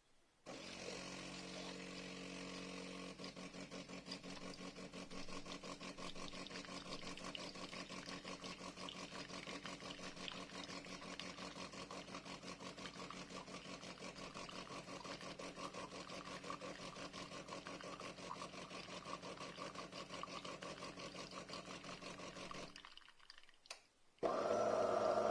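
De'Longhi Magnifica S espresso machine's pump running steadily as it dispenses coffee, a low hum with a rapid pulsing that stops shortly before the end. A louder sound from the machine starts near the end.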